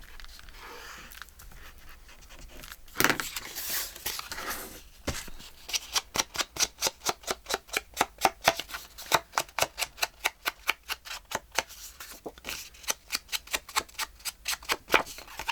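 Scissors cutting with quick, regular snips, about three to four a second, through most of the second half, after a short rustle of paper.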